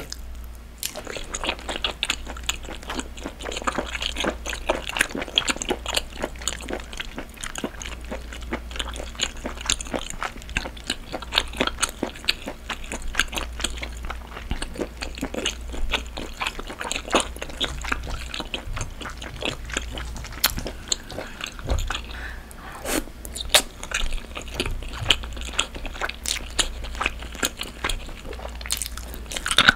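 Close-miked chewing of a boiled octopus head: a steady run of small, irregular wet clicks, with a few sharper clicks past the middle.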